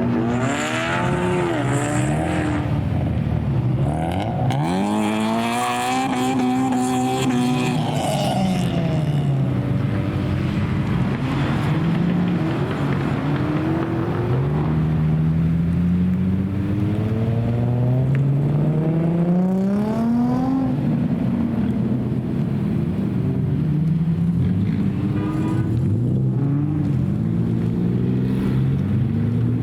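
Loud car engines revving and accelerating, their pitch climbing and dropping several times as the cars drive off past the microphone, with one big rise about four to eight seconds in and a long climb near the middle.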